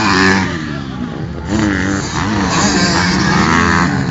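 Motocross dirt bike engines revving, their pitch rising and falling over and over as the bikes run the track.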